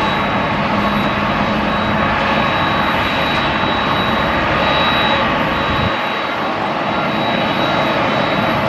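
Steady jet airliner noise with a thin, high, steady whine. The whine fades about five seconds in, and the low rumble eases a little about six seconds in.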